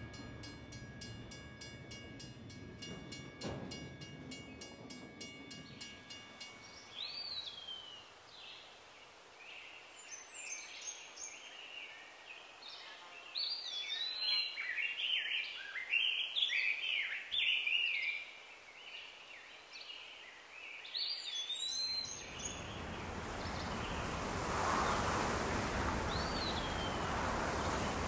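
Songbirds chirping and calling, with many short rising and falling notes, over an otherwise quiet marsh. Before them, a train's low rumble and steady tones cut off after about six seconds. Near the end, a steady rushing noise builds up and takes over.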